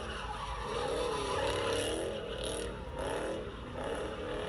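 Car engine revving, its pitch rising and falling repeatedly over a steady low rumble.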